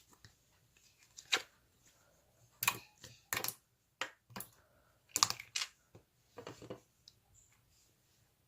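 Slime being pressed and played with by hand, giving a series of irregular crackly clicks and pops, the loudest about five seconds in.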